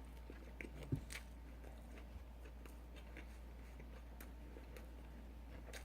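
Faint chewing of fast food close to the microphone, with scattered small mouth clicks; the loudest click comes about a second in. A steady low hum runs underneath.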